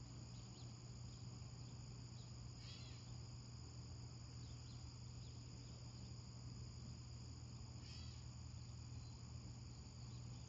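Faint nature-sounds backdrop: a steady high-pitched insect chorus of crickets over a low steady hum, with a couple of brief chirps about three and eight seconds in.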